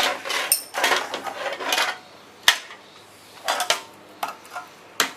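Metal hand tools clinking and scraping against bolts and fender metal, a string of separate clicks and clatters with the sharpest one about halfway through.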